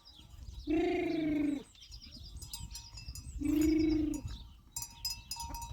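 Two sheep bleats, each just under a second long, about three seconds apart.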